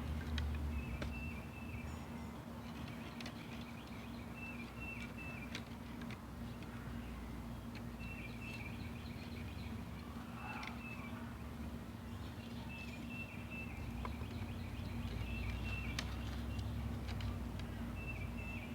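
A bird repeatedly singing a short phrase of high chirps every two seconds or so, over a steady low hum and rumble, with scattered light clicks of sticks being handled.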